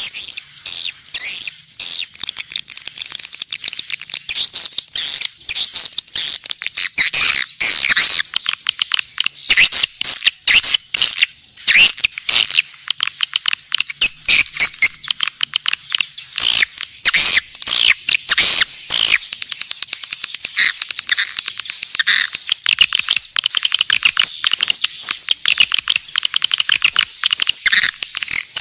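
A flock of swiftlets calling: a dense, unbroken chatter of rapid, high chirps and twitters.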